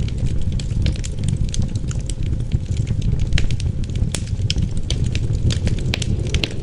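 Wood fire crackling in a fireplace, with frequent sharp pops and snaps over a steady low rumble of wind.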